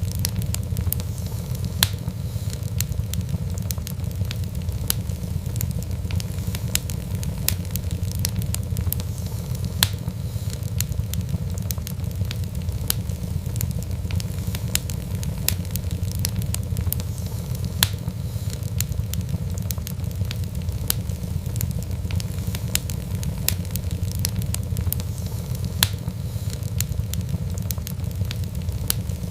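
Wood fire burning in a fireplace: a steady low rumble of flames with irregular sharp crackles and pops throughout, a few of them louder.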